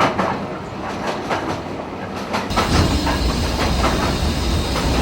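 Steam train running on the rails: irregular clicks of the wheels over the track, then a louder steady rumble and hiss setting in about two and a half seconds in.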